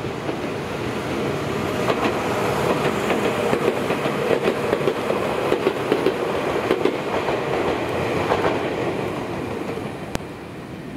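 Tokyu 1000 series electric train running past, its wheels clacking over the rails in a quick run of clicks over a steady rolling noise. It is loudest as the middle cars go by and fades near the end as the last car leaves.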